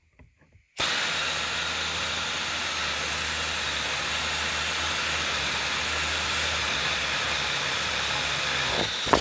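Pneumatic air tool running steadily with a loud hiss of compressed air and a low hum, tightening down the knee airbag's mounting nuts. It starts abruptly under a second in and cuts off near the end.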